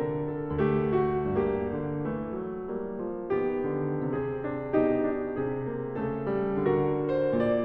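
Instrumental Christmas music on solo piano, notes and chords struck one after another.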